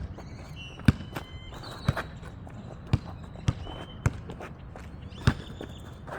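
A basketball bouncing on an outdoor court, dribbled in uneven bounces about once a second, along with a few short high squeaks.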